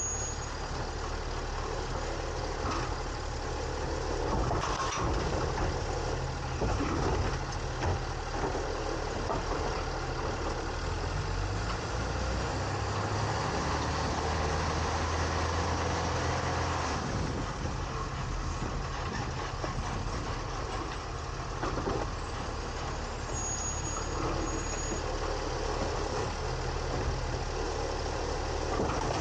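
2022 Autocar ACX garbage truck's engine running, its speed rising for a few seconds midway, with scattered knocks and clatter.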